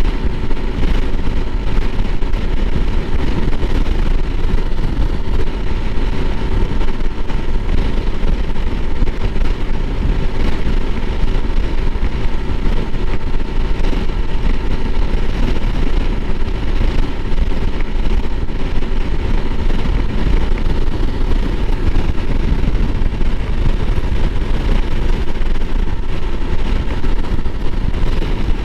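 Honda CRF300L Rally's single-cylinder engine running at a steady pace while riding, over a constant rush of noise, with no revving up or down.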